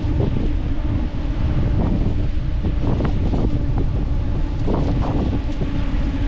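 Wind buffeting the microphone on a moving bicycle: a loud, steady rumble with a steady low hum underneath.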